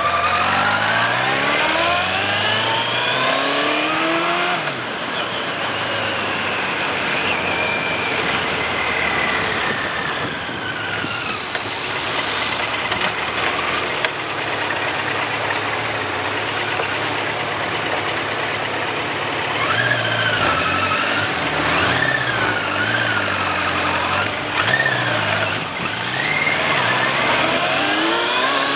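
Suzuki GSX1400's inline-four engine accelerating, its pitch rising over the first few seconds, then wind rushing over the microphone with the engine underneath. About twenty seconds in the revs rise and fall several times, and they climb again near the end.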